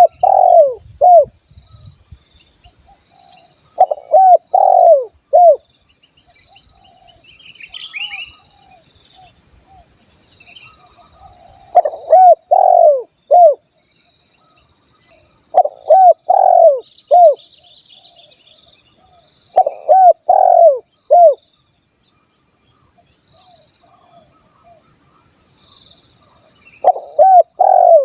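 Spotted dove cooing: repeated phrases of three or four low coos, each phrase about a second long, coming every four seconds or so with one longer pause in the middle. A steady faint high-pitched insect buzz runs underneath.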